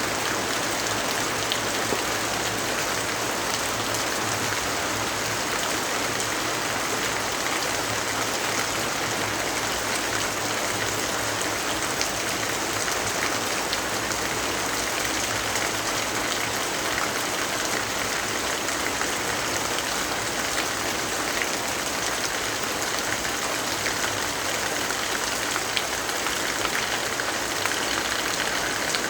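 Steady rain falling: an even hiss dotted with the ticks of individual drops, over a faint low steady hum.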